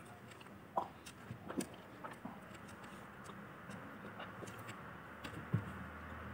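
Faint chewing of fried chicken, with a few soft clicks and small mouth sounds, and one soft knock near the end.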